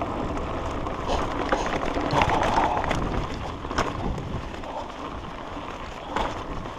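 Mountain bike riding over a dirt trail: wind on the action camera's microphone and tyre noise, with sharp clicks and knocks from the bike rattling over bumps a handful of times.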